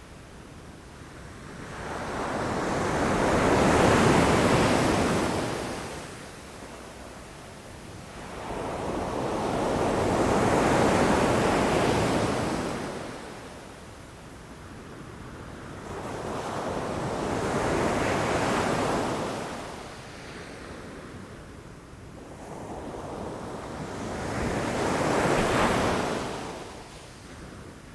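Ocean waves washing against rocks: four waves, about seven seconds apart, each building up and fading away, with a steady hiss of surf between them.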